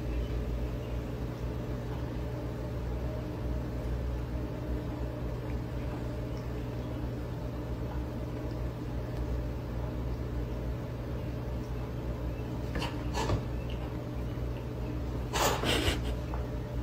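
Two house cats squaring off, with a few short hisses near the end over a steady low hum in the room.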